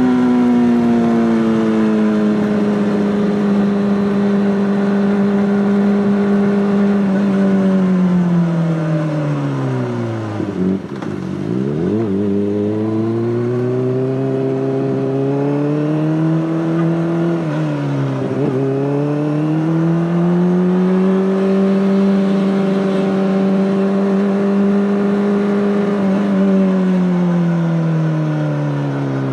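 Honda CBR600RR inline-four engine with an Akrapovic exhaust, running at steady revs. About ten seconds in it drops away low, then pulls back up; it dips briefly again, climbs and holds, and falls off near the end.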